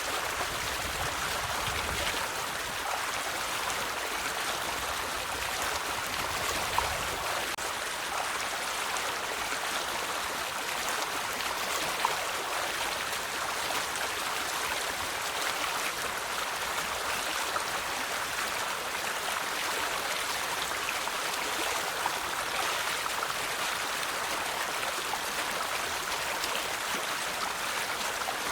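River water flowing, a steady, even rush with a few faint brief ticks from splashing or drips.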